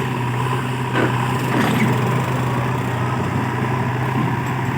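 Heavy diesel engine running steadily under work, with a couple of short knocks about one and nearly two seconds in.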